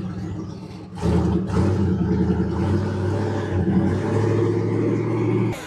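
Twin-turbo LS V8 engine of a swapped Lincoln Continental running with a deep, steady rumble. It gets much louder about a second in and holds there, then cuts off suddenly near the end.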